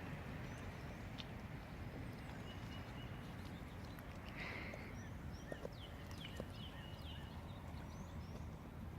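Rain falling steadily, with a few faint, short, high chirps in the second half.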